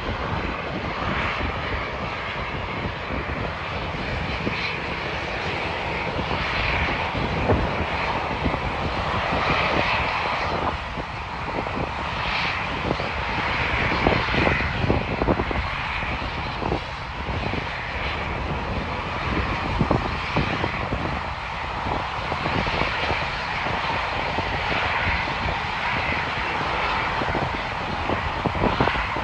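Jet airliner engines running loud and steady, a continuous rumble and roar with an irregular crackle through it.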